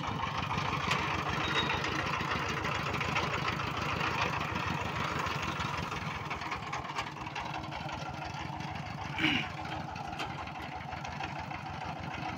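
Single-cylinder Changfa diesel engine of a bhutbhuti motor van idling steadily with an even, rapid beat. A brief louder sound cuts in about nine seconds in.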